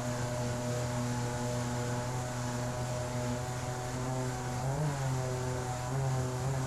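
Outboard motor of an inflatable jet boat running at high speed, a steady engine drone with a slight rise in pitch about five seconds in.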